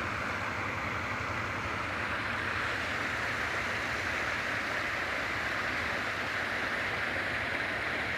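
Creek water running steadily: a constant, even rushing with no breaks.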